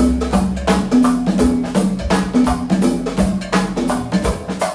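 Live go-go band music: a steady percussion-heavy groove of drum-kit hits with a moving bass line, between vocal call-outs.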